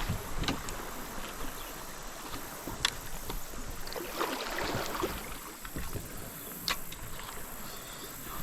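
Kayak on a river: water hissing and lapping around the hull, with three sharp clicks or knocks and a soft splash partway through.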